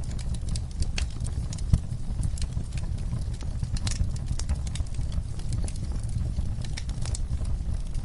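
Fire crackling in a fireplace: irregular sharp pops and snaps, a few a second, over a steady low rumble.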